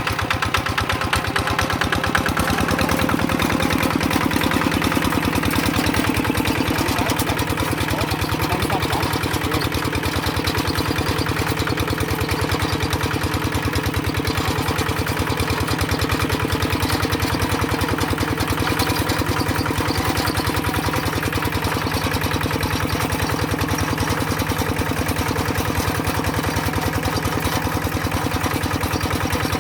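Tractor engine running steadily, with an even, fast beat of firing pulses; its note shifts slightly about two seconds in.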